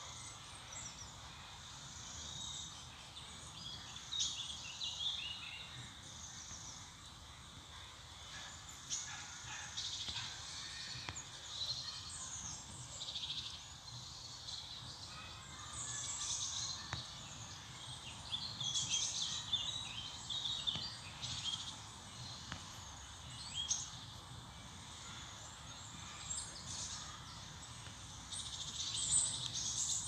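Several birds chirping and singing in short, irregular phrases, over a steady low background rumble.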